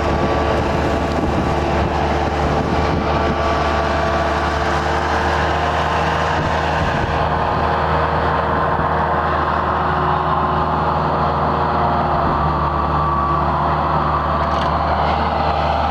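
Skid steer engine running steadily under a constant load, with a low drone and a steady whine above it.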